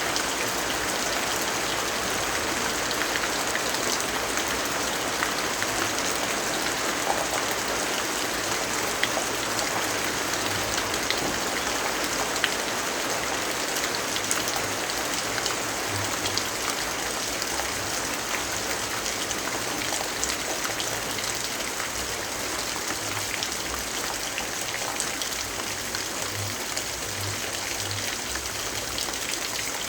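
Steady rainfall, an even hiss with many scattered sharp ticks of drops striking.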